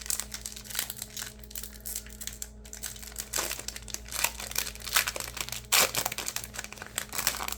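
Foil wrapper of a 2025 Bowman baseball card pack crinkling and crackling irregularly as it is handled, with a few louder crunches.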